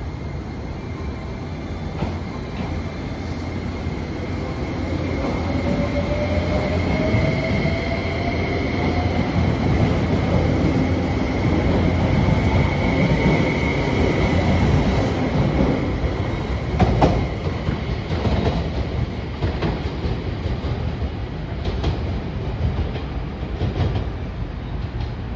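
JR West 273 series electric train (Limited Express Yakumo) accelerating: a heavy rolling rumble with a motor whine that rises steadily in pitch over several seconds. Later come a few sharp clacks of the wheels over rail joints.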